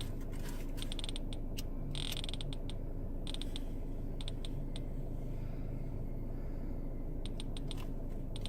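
Short sharp clicks in small clusters from a phone being set, typical of a timer being dialled in, over a steady low hum.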